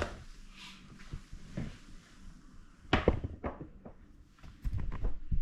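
A few knocks and thumps in a small room: a sharp knock about three seconds in, fainter ones after it, and a cluster of low thumps near the end.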